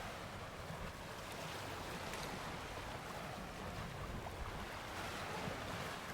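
Steady wash of wind and water around a moored boat, with wind buffeting the microphone and a few faint ticks.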